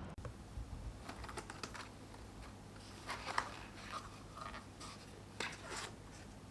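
Soft, irregular small clicks and short scratching sounds of something being handled at close range in a small room.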